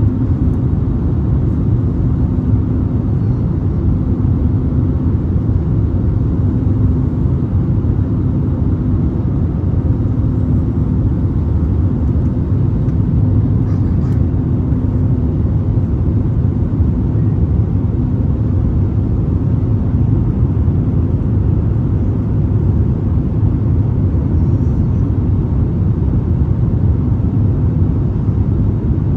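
Steady low roar inside a jet airliner's cabin in flight: engine and airflow noise, with a faint wavering hum riding on it.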